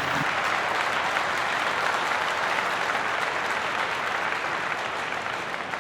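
Crowd applause sound effect: a dense, steady clapping that fades slightly near the end.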